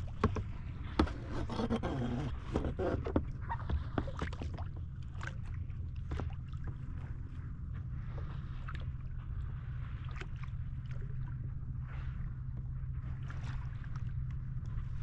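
Kayak on open sea: water splashing and dripping against the hull and paddle in many short, sharp splashes, busiest in the first half, over a steady low rumble.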